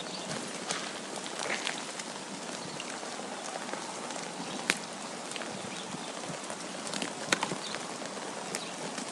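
Steady hiss of wind and falling snow, with scattered light ticks and two sharper clicks, one about halfway through and one about three-quarters of the way through.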